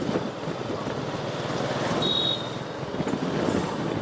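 Motorcycle riding along a highway: steady engine and road noise with fast pulsing, amid traffic. A brief high-pitched beep sounds about two seconds in.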